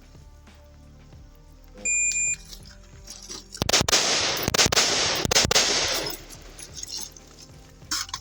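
A shot-timer beep starts the stage, then rifle shots follow a second and a half later in three quick pairs, echoing, with one more shot near the end. Background music with steady tones runs underneath.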